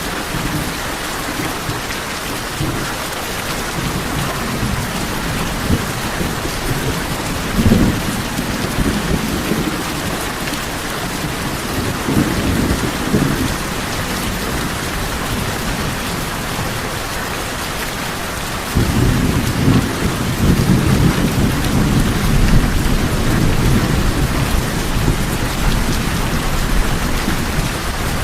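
Steady rain falling on a tin roof, with low rolls of thunder. There are short rolls about 8 and 12 seconds in, then a longer, louder rumble that begins about two-thirds of the way through.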